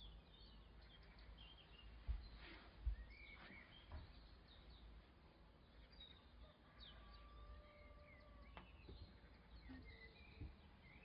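Faint birds chirping: many short, high chirps and glides over a low rumble, with a few dull thumps, the loudest about two and three seconds in.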